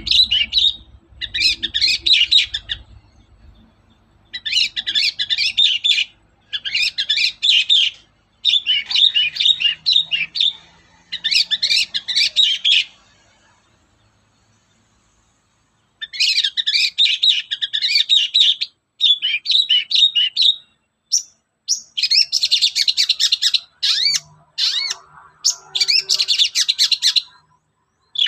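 Long-tailed shrike (cendet) singing a rapid chattering song in phrases of one to two seconds with short breaks between them, and a pause of about three seconds midway.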